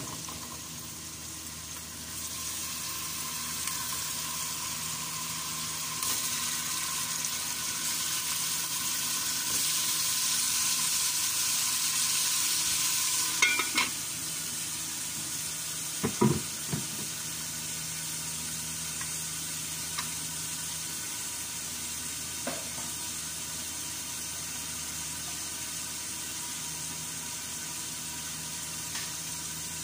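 Chicken pieces sizzling in hot oil in a metal stockpot, the sizzle building over the first few seconds. About halfway through, metal knocks as the lid goes on, with a couple more knocks soon after, and the sizzle goes on more quietly under the lid.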